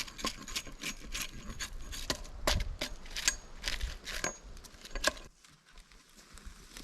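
Light, quick, irregular knocks and scrapes of hand work on wooden poles, stopping about five seconds in.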